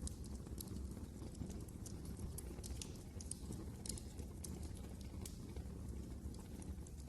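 Wood fire crackling in a fireplace: a steady low rumble of burning with scattered sharp pops and snaps at irregular intervals.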